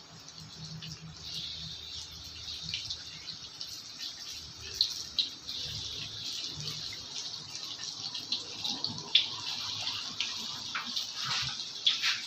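Banana fritters frying in hot oil: a steady sizzle with scattered small crackles and pops.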